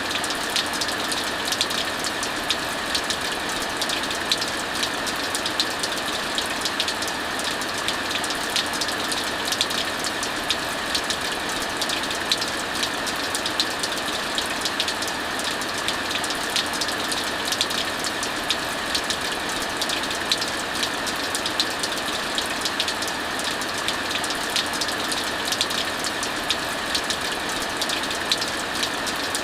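Steady heavy rain hissing, mixed with a wood fire crackling in many small sharp pops.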